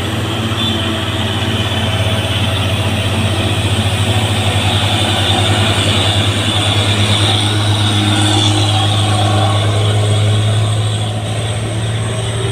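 Heavy diesel truck engine labouring up a steep climb under a heavy load. It makes a loud, low, steady drone with a fast even pulse, which swells through the middle and eases near the end.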